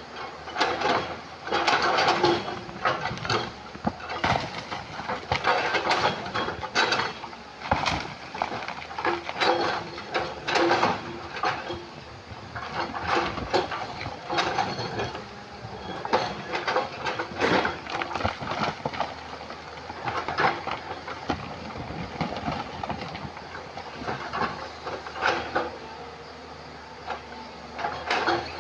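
Excavator working among river stones: irregular clanks, knocks and scraping of rock against the steel bucket, over the steady low hum of the engine.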